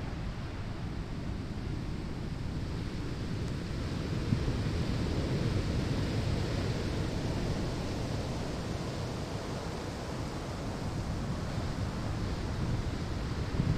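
Ocean waves breaking on a sandy shore: a steady wash of surf that swells about four seconds in and again near the end.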